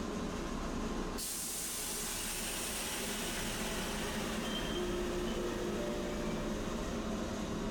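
Tosaden streetcar running, its rail and motor noise steady. An even hiss comes in suddenly about a second in and holds.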